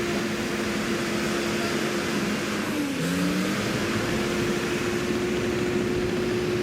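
Cat D6H bulldozer's diesel engine running steadily. Its pitch dips briefly about three seconds in, then comes back up.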